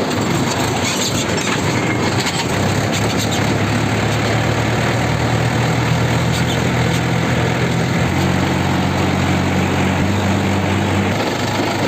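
Tractor diesel engine running on the move, under a steady rush of road and wind noise. A low engine hum comes in about three seconds in, shifts slightly in pitch around eight seconds, and fades near the end.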